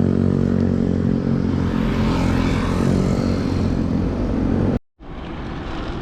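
A motor vehicle's engine running steadily nearby at an even pitch, over traffic noise, cut off abruptly a little before the end and replaced by quieter road noise.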